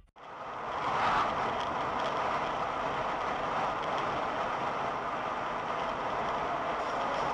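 Steady driving noise of a moving vehicle: an even hiss of tyres and engine, fading in over the first second and then holding level.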